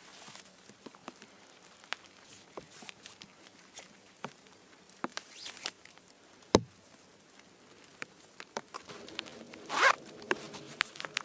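A zipper being worked, with scattered small clicks and rustles of handling, a single sharp knock about six and a half seconds in, and a short, louder rasp near the end.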